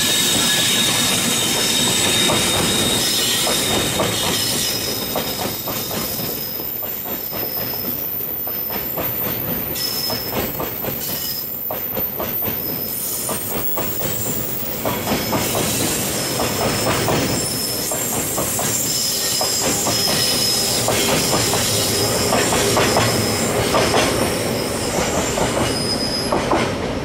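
Freight train of Taki oil tank wagons, hauled by an EH200 electric locomotive, rolling past at very slow speed. The wheels give a high-pitched squeal against the rails that comes and goes, over a steady run of clicks from wheels crossing rail joints.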